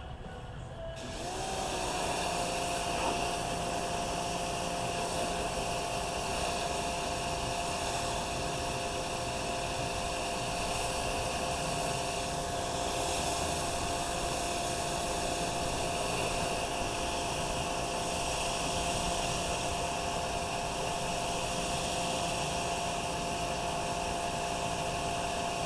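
A small electric motor starting up about a second in and running steadily at one pitch, a high whine over a wide hiss.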